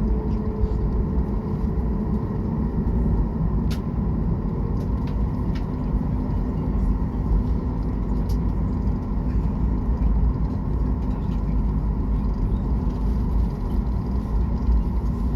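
Airliner cabin noise before takeoff: a steady low rumble of the jet engines and cabin air system with a faint steady hum, and a couple of faint clicks.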